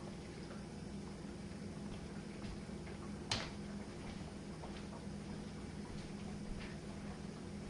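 Jenn-Air dishwasher running a quick wash cycle: a steady low hum with light scattered ticking, and one sharp click about three seconds in.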